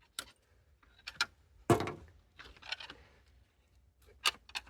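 Hand tools and metal parts being worked on a diesel engine: a series of sharp clicks and knocks, the loudest a heavy clunk a little under two seconds in, followed by a short scraping rustle.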